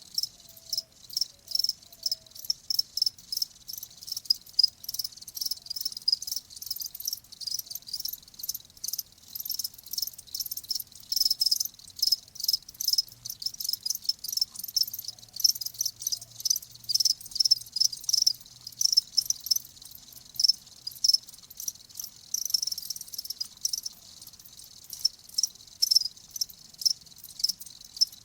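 Crickets chirping continuously, several overlapping in rapid high-pitched pulses.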